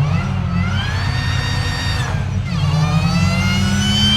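Hillclimb car's engine under hard acceleration, the revs climbing, dropping sharply at an upshift about two seconds in, then climbing again.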